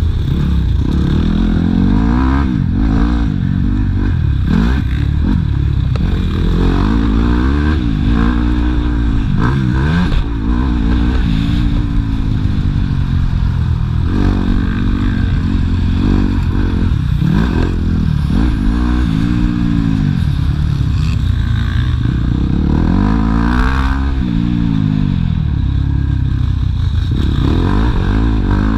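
Yamaha YZ250F four-stroke single-cylinder motocross bike engine, revving up and dropping back over and over as the rider accelerates, shifts and backs off around the track.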